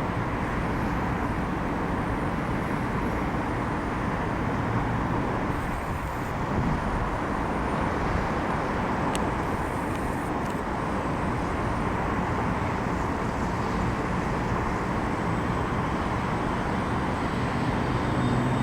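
Boeing 737 MAX 8 airliner's jet engines heard steadily through the landing, with a continuous rushing noise and no distinct events.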